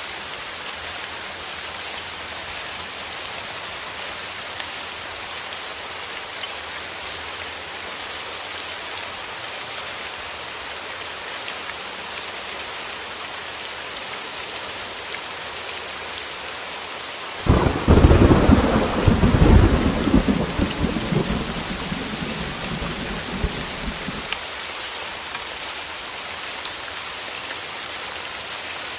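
Heavy rain hissing steadily on a window. About two-thirds of the way in, a sudden thunderclap breaks out and rumbles away over some six seconds.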